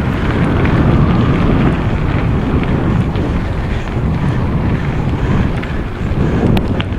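Wind buffeting the microphone of a camera carried on a moving mountain bike, a loud, steady rumble. A couple of sharp clicks come near the end.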